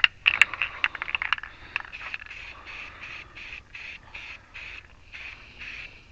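Aerosol spray-paint can: a quick burst of rattling clicks as the can is shaken, then the paint sprays in a steady run of short hissing bursts, about two a second.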